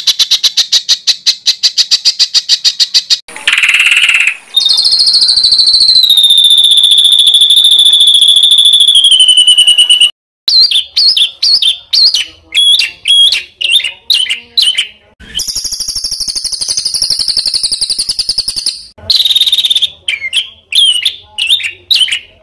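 Songbird song of the kind used to tutor competition birds: a fast trill, then a long whistled note that slowly falls in pitch, followed by runs of sharp, choppy notes and another long held whistle near the end.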